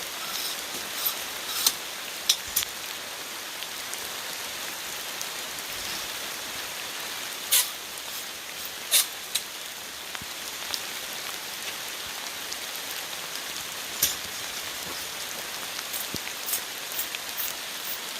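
Steady heavy rain, an even hiss, with scattered sharp taps and clicks, a handful of them much louder than the rest.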